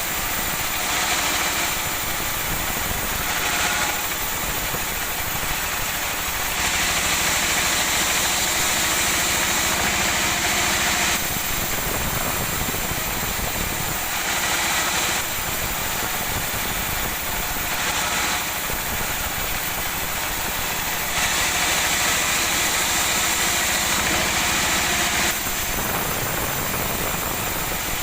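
Woodworking machinery running steadily, with louder, brighter stretches lasting a few seconds each, the longest two about 4 seconds, as sonokeling wood is fed through and cut.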